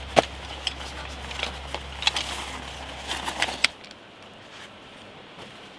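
Irregular clicks, taps and rustles of camping gear being handled while pitching a pup tent. About two-thirds of the way in the handling stops and only quieter outdoor ambience remains.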